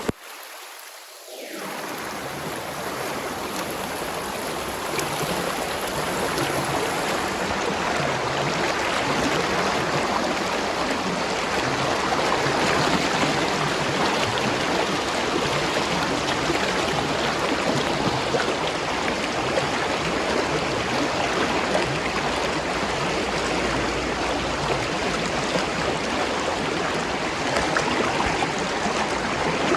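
Spring water flowing steadily in a continuous rushing babble. It fades in over the first couple of seconds.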